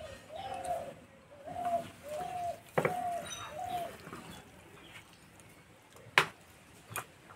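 A bird calling a run of short, evenly spaced repeated notes, about five in the first four seconds. Then come a few sharp knocks, the loudest about six seconds in.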